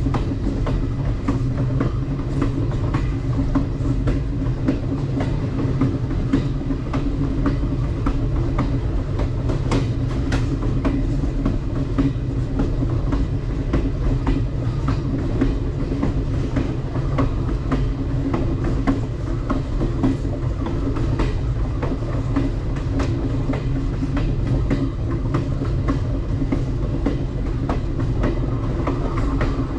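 Alaska Railroad Coastal Classic passenger train running along the track: a steady low rumble of the rail cars, with scattered light clicks of the wheels over the rails.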